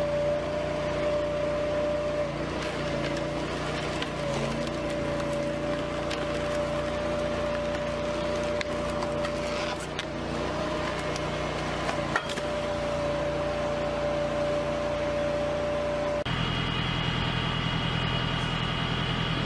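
Machinery running with a steady hum and a held tone over noise, with a few sharp clicks; it changes abruptly near the end to a different machine with a higher whine.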